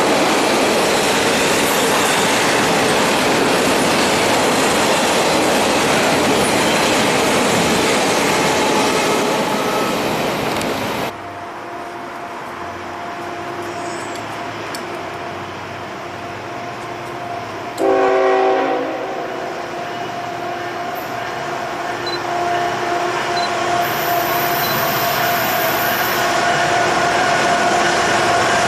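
Norfolk Southern freight train passing close by with loud wheel and rail noise, cut off suddenly about 11 seconds in. Then a diesel locomotive's steady engine hum, a short multi-chime air horn blast about 18 seconds in, and the train growing louder as it approaches.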